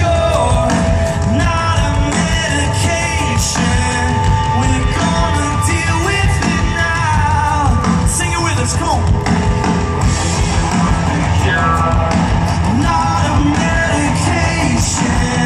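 Live rock band playing loudly, with drums, guitar and singing over it.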